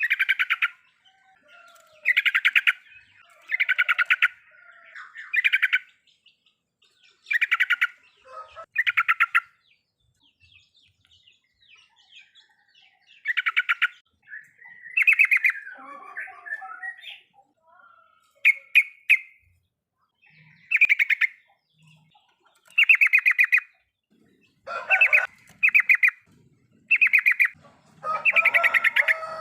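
Yellow-vented bulbul (trucukan) giving its riwikan chatter: short bursts of rapid, clipped notes, each about half a second to a second long, repeated every second or two, with busier overlapping calls near the end.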